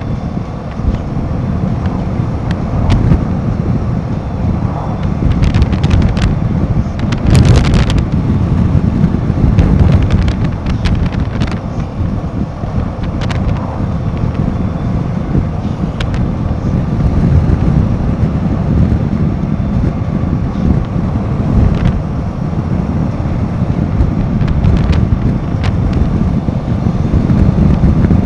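Wind rushing over the microphone of a moving Royal Enfield Himalayan 450 motorcycle, mixed with the low running of its single-cylinder engine. A few light clicks are heard, and there is a short louder burst about seven seconds in.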